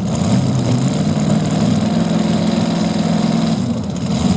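Modified pulling tractor's engine running steadily at the start line, a deep even drone that holds one pitch and breaks off shortly before the end.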